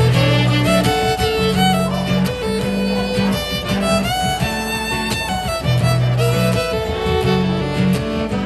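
Live band playing an instrumental break between sung verses: a held, gliding lead melody over repeated bass notes.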